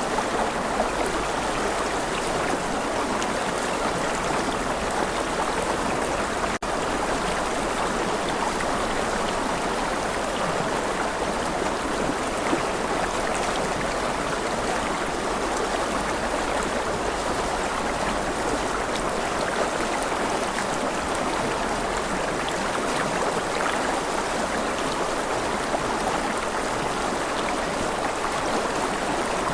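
Steady rush of a flowing stream, even and unbroken apart from a split-second dip about six and a half seconds in.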